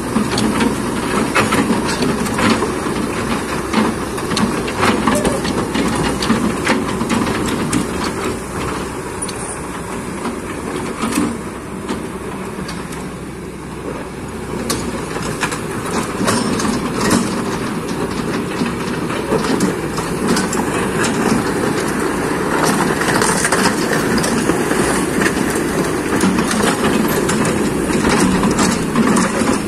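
Kobelco excavator working, its diesel engine running steadily under repeated metallic clanks and rattles.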